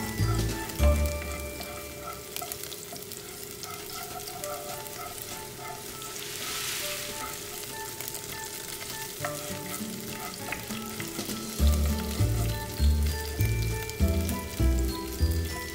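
Minced garlic sizzling in hot oil as it is stirred with a spatula, frying until golden brown. The sizzle is brightest about halfway through. Background music with a steady bass plays throughout and is loudest near the end.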